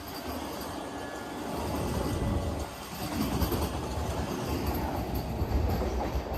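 A train running past on the rails, its wheel-and-rail rumble growing louder about a second and a half in and staying loud.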